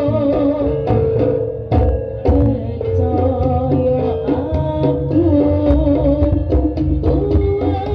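Live Javanese jaranan (kuda lumping) ensemble music: hand-played drums beating a busy rhythm under a wavering melody line, with two sharp, loud strokes about two seconds in.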